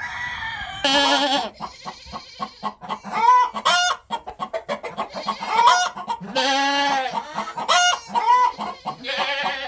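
Farmyard chickens clucking with roosters crowing, many calls overlapping one another.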